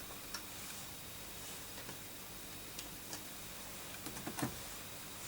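Scattered light clicks and taps of small objects being handled on a workbench, with a louder cluster of knocks about four seconds in, over a faint steady hiss.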